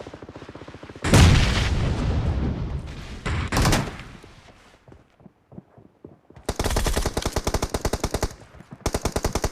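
Video game gunfire: a loud blast about a second in that fades away, then, after a short lull, two long bursts of rapid automatic fire.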